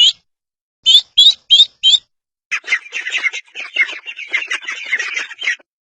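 Ducklings peeping: four separate high peeps in the first two seconds, then a dense run of overlapping chirps from about two and a half seconds in, stopping shortly before the end.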